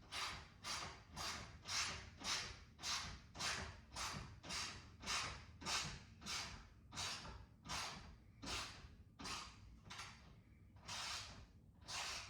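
Ratchet wrench tightening a nut onto a carriage bolt: a short burst of ratchet clicking on each back-swing, about two strokes a second, slowing near the end.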